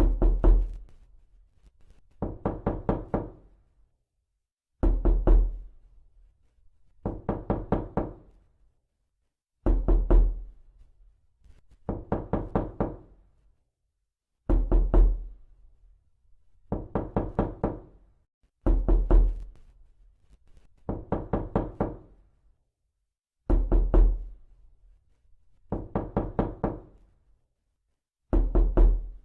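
Knocking in repeated bursts of several quick knocks, a new burst a little over every two seconds, with louder, deeper bursts alternating with softer ones.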